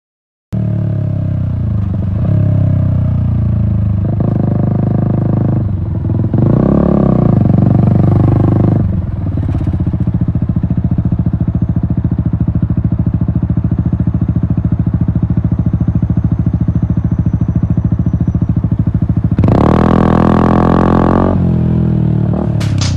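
Yamaha MT-125's single-cylinder four-stroke engine through an Akrapovic exhaust while riding. It cuts in abruptly about half a second in, with the revs rising and falling several times over the first few seconds. It then runs steadily at a constant speed and rises loudly again a few seconds before the end.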